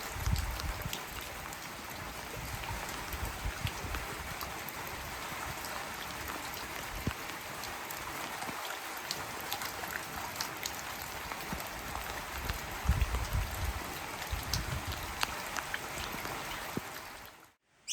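Heavy rain falling steadily, with many separate drop hits, and a few low rumbles under it. It cuts off abruptly just before the end.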